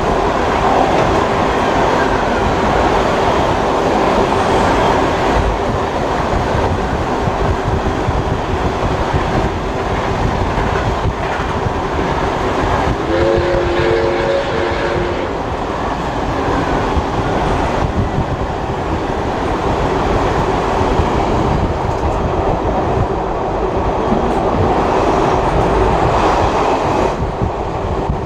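Passenger carriage running behind Baldwin-built steam locomotive 5917: a steady loud rumble and rattle of wheels on the rails. About halfway through, a chime whistle sounds once for about two seconds.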